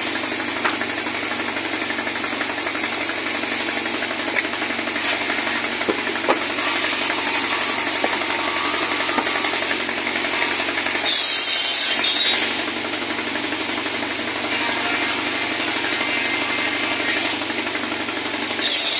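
Pallet-wood cutting saw running steadily, with a louder, harsher burst of about a second near the middle as the blade cuts into wood.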